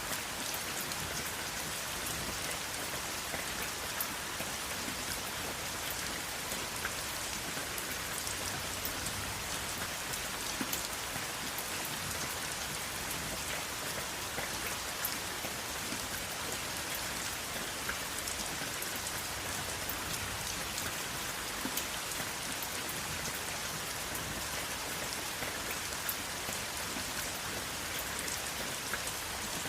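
Steady rain falling, an even hiss with the small ticks of individual drops hitting a surface, no thunder.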